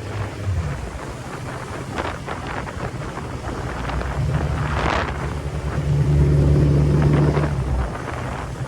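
Suzuki Hayabusa's inline-four engine under way, climbing in pitch and loudness about halfway through, held at its loudest for a second or two, then easing off near the end, with wind rushing over the microphone.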